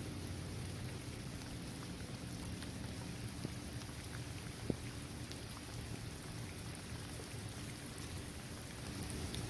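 Steady rain falling on a hard court surface, trees and grass, with scattered individual drops tapping and one sharper drop tick about halfway through.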